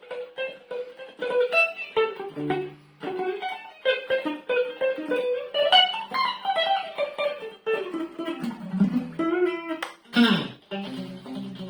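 Electric guitar on a clean, undistorted tone playing fast single-note lines that keep coming back to one repeated note. Near the end come pitch slides and a quick downward swoop before the fast lines resume.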